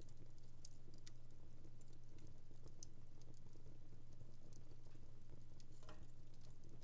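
Wood fire in a home fireplace crackling faintly, with scattered sharp pops and snaps at irregular intervals over a low steady hum.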